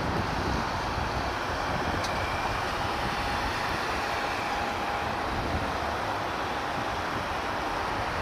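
Steady distant vehicle noise, with a faint thin whine held for a few seconds in the middle.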